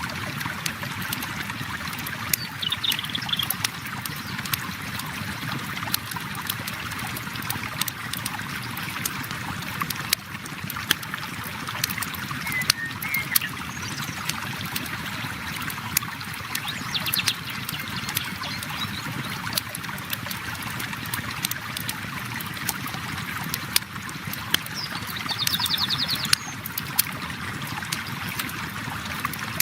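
River water flowing steadily over a crackling campfire, the fire's sharp pops scattered irregularly throughout, with a few brief high chirps now and then.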